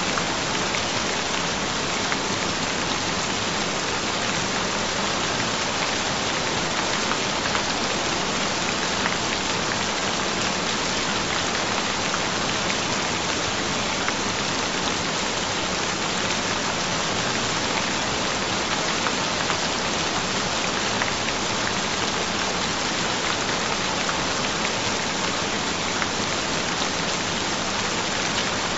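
Steady rain falling on a surface: an even hiss with a fine patter of drops.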